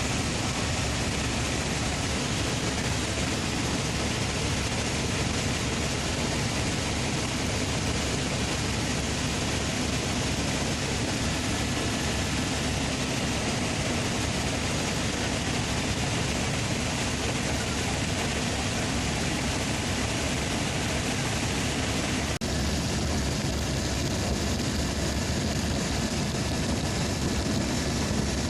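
Helicopter in flight: steady engine and rotor noise, with a brief dropout about three-quarters of the way through.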